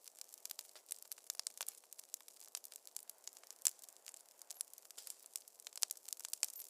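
Wood fire crackling in a fireplace: a dense, irregular run of sharp pops and snaps over a soft hiss, with one louder pop a little past halfway.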